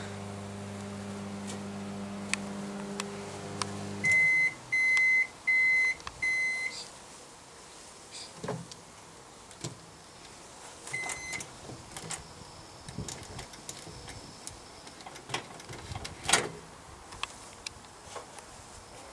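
Microwave oven running with a steady low hum that stops about four seconds in, followed by four loud, high end-of-cycle beeps. Later a single short beep and scattered clicks and knocks, the sharpest about three seconds before the end.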